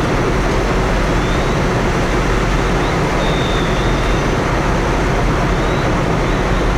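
Steady, loud, unbroken rumbling noise at a fully involved commercial structure fire: the fire burning, with fire engines running at the scene.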